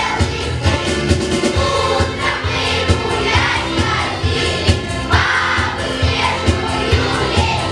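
A children's choir singing a song together over a musical backing track with a steady beat.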